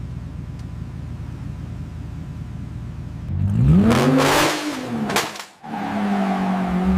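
Race car engine: a low steady rumble, then about three and a half seconds in the engine note rises and falls as it revs up and eases off. A brief sharp burst and a short drop-out follow, then a steady engine note.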